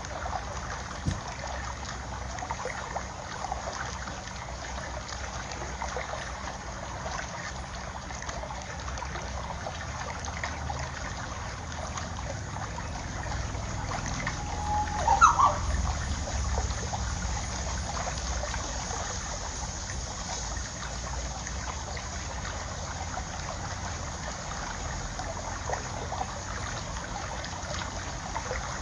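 Water trickling and splashing steadily, with a brief louder sound about halfway through.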